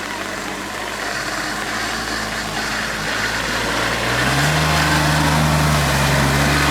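Tractor engine running, growing louder about four seconds in and then holding a steady note.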